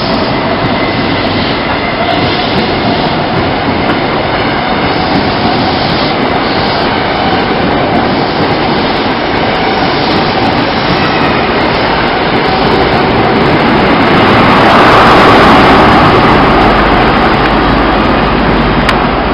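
Train running on rails: a steady rumble and rail noise that grows to its loudest about three quarters of the way through, then eases off.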